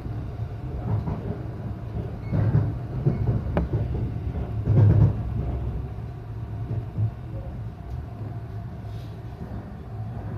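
Local electric train in motion, heard from inside the carriage: a steady low rumble from the running gear, with a few heavier jolts and a sharp click in the first half, then a little quieter.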